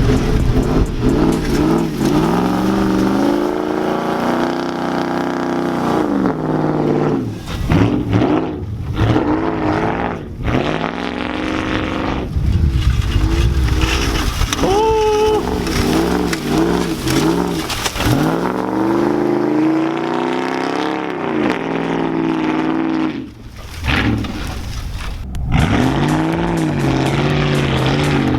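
Lifted 4x4 pickup truck engine revving hard again and again while driving through deep snow, its pitch climbing and dropping every second or two. A brief high squeal comes about halfway through.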